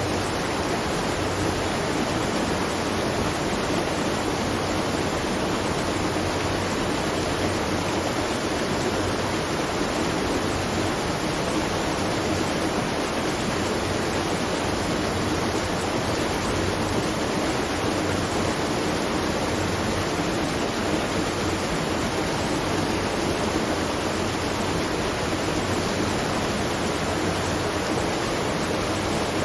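Water rushing and splashing at a watermill, a steady unbroken sound.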